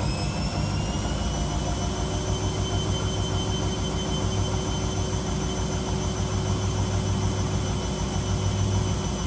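Washing machine motor and drum running, with a whine that rises in pitch over the first second or two and then holds steady over a low hum as the drum speeds up.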